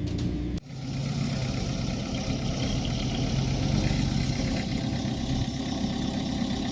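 Heavy earthmoving machine's diesel engine running steadily at a low idle. It comes in after the end of the intro music, which cuts off about half a second in.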